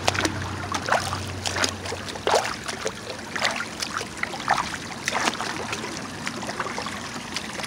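Water splashing in short, irregular strokes as an inflatable raft is rowed on a small pond, over the steady trickle of a small waterfall.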